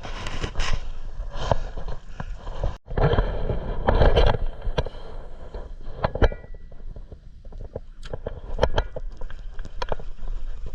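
Wind and water noise on a small fishing boat's deck, with scattered knocks and clatters of gear and a brief ring about six seconds in.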